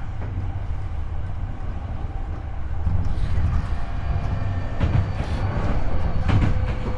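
Hankyu 8300-series electric train running, heard at floor level inside the car: a steady low rumble from the wheels and bogie, with the steady whine of the Toyo IGBT-VVVF inverter and traction motors. Wheels clack over rail joints twice in the second half.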